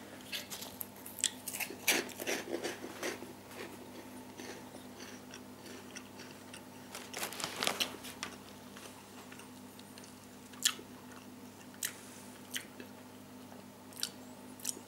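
Crunchy cheese-flavoured corn puff balls being bitten and chewed. Crunching comes in clusters over the first few seconds and again about halfway through, with a few single sharp crackles after that.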